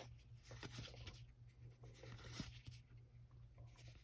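Faint, soft rustles and ticks of trading cards being slid and flipped through by hand, over a low steady hum.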